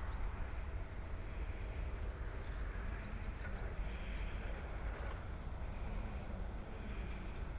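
Steady low rumble and running noise of an ED9M electric suburban train, with a few faint ticks.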